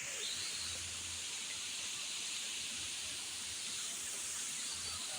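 Steady, unbroken rush of a large waterfall, heard as an even hiss.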